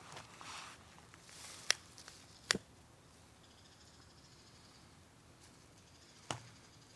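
Wood campfire crackling quietly, with three sharp pops: two close together about two seconds in and one near the end. A brief rustle at the start.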